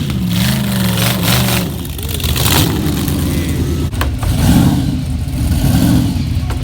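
Drag car engine running loudly, rough and uneven at idle, with a couple of short revs in the second half.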